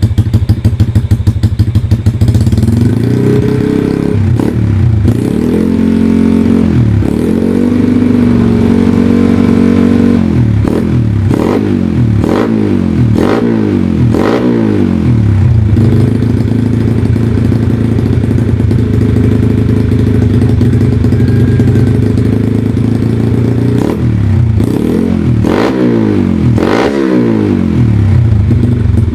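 Yamaha Jupiter Z's single-cylinder four-stroke engine through a loud aftermarket exhaust, idling with a rapid popping beat, then blipped in a quick series of revs. It settles back to a steady idle and is revved a few more times near the end.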